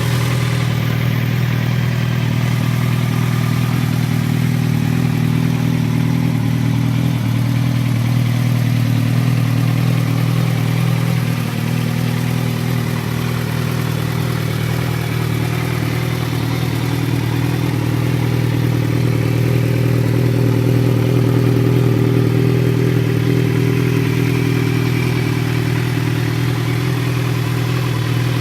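Kawasaki Z1000's inline-four engine running through an Akrapovic aftermarket exhaust, holding a steady low engine speed with only a slight swell a little after the middle.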